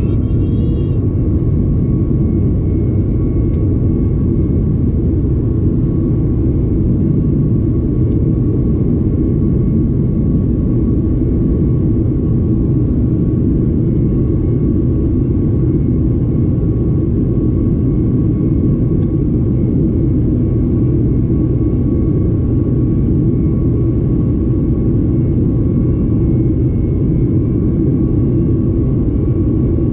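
Steady cabin noise of a Boeing 737 MAX 8 with its CFM LEAP-1B engines in flight: an even, loud rumble of engines and airflow with a few faint steady whining tones above it.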